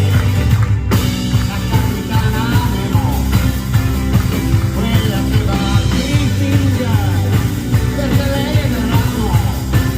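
Live band playing an instrumental passage of a song, with a lead melody line bending up and down over a steady bass and rhythm.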